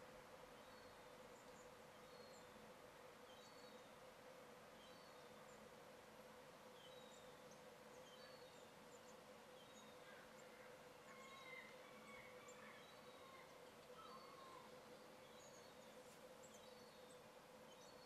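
Faint small birds chirping, with short high chirps scattered throughout and a few lower calls around the middle, over a steady low hum.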